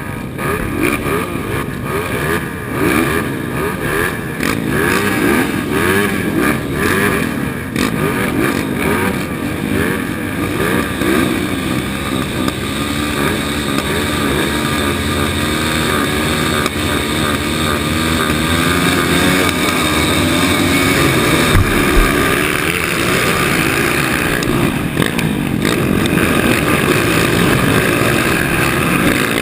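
230 cc motocross bike engine revving hard, its pitch rising and falling over and over as the rider accelerates, shifts and backs off. A steadier, higher run of revving holds through the second half.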